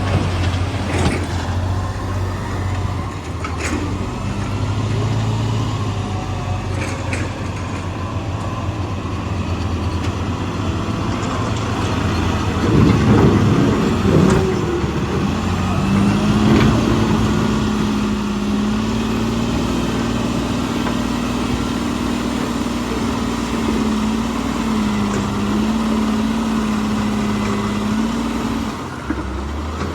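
Heavy diesel machinery engine running, with occasional sharp clanks and a loud rattling crash a little after halfway. After that the engine holds a higher, steady pitch, revving under load.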